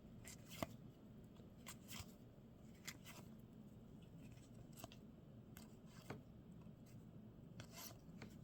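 Faint, irregular clicks and flicks of baseball trading cards being flipped through by hand, one after another.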